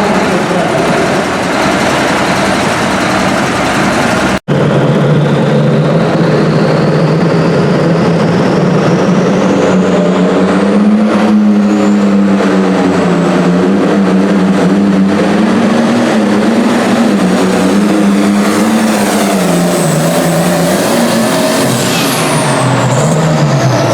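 Turbocharged super stock pulling tractor engine running hard under load, its pitch wavering. A thin whistle climbs steadily for several seconds after a brief dropout a few seconds in, and falling whistles come near the end.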